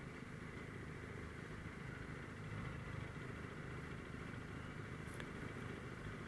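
Motorcycle engine running steadily, heard faintly as a low rumble.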